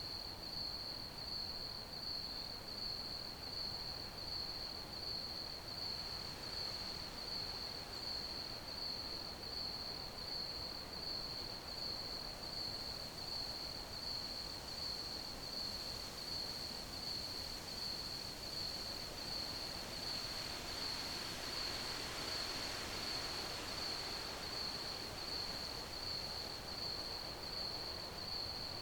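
Crickets chirping in a steady, evenly pulsing high-pitched trill, over a faint background hiss.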